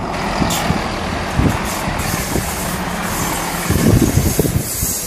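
Class 166 diesel multiple unit passing close at speed: a steady diesel engine note over the rumble and hiss of its wheels on the rails, the engine note dropping away about three-quarters of the way through as the train goes by.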